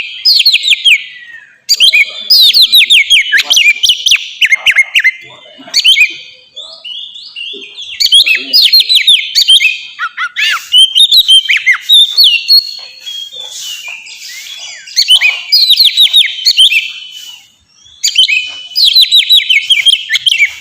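Oriental magpie-robin (kacer) singing its full, open song: loud, varied whistled phrases of quick sweeping notes, delivered in bursts of a few seconds with short pauses between them.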